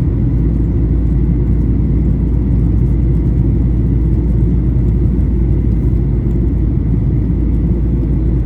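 Cabin noise inside a Boeing 737-800 in flight: the steady low rumble of airflow and its two CFM56-7B engines, with a faint thin whine above it.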